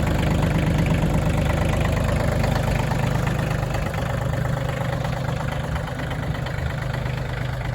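Kioti CX2510 compact tractor's three-cylinder diesel engine idling steadily, dropping slightly in level about four seconds in.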